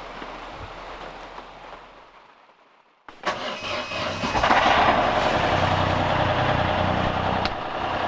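A steady hiss fades out. About three seconds in, the sailboat's engine starts up and builds to a steady run.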